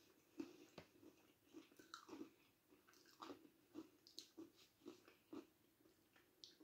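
A person chewing milk-chocolate-coated pretzels: faint, soft crunching chews at about two a second.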